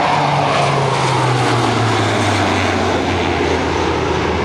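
A Lockheed C-130J-30 Hercules's four turboprops heard in a fast flyby. The loud propeller roar carries a low tone that falls steadily in pitch as the aircraft passes and moves away.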